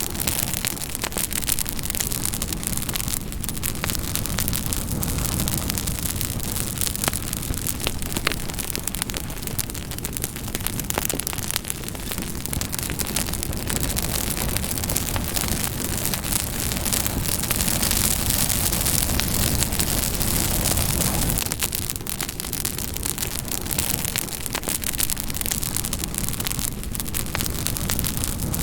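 Campfire burning steadily, a dense hiss of flames with frequent sharp crackles and pops of burning wood.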